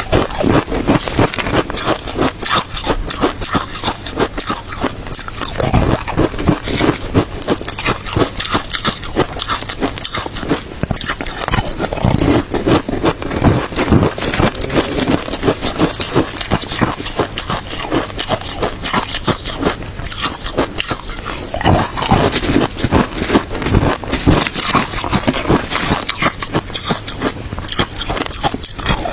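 Close-miked biting and chewing of crunchy shaved ice: an unbroken run of sharp crunches and crackles, with heavier bites now and then.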